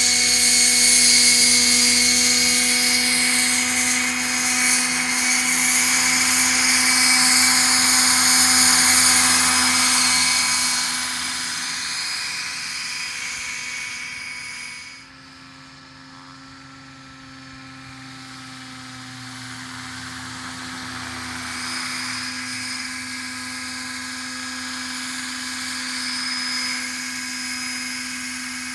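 Electric Roban EC135 scale RC helicopter running at a 1250 rpm head speed: a steady motor-and-rotor whine. It drops sharply about halfway through, then slowly grows louder again.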